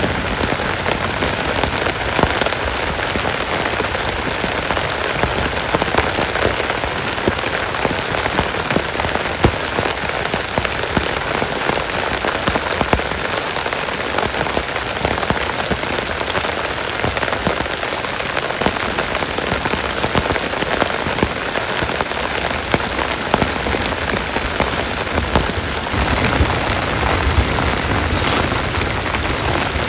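Heavy rain falling steadily, with many separate drops ticking on a surface close to the microphone. A low rumble swells in underneath near the end.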